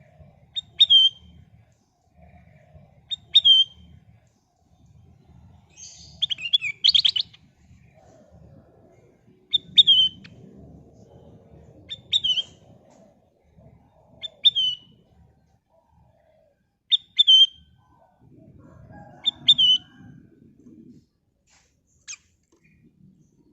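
A kutilang emas bulbul singing short, loud, repeated phrases about every two and a half seconds. Each phrase is a quick run of high notes ending in a clear down-slurred whistle. A busier, buzzier phrase comes about a quarter of the way in.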